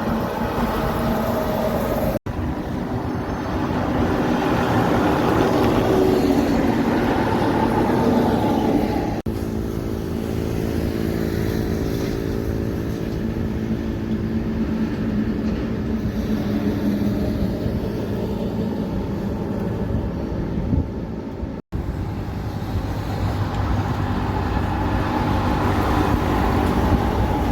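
Truck engines running and driving past, in several short clips joined by abrupt cuts, one with a steady engine drone in the middle stretch.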